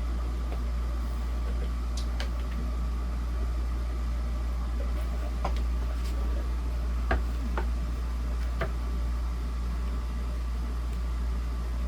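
A handful of light clicks and taps from a screwdriver and plastic fan parts being handled during reassembly, over a steady low hum.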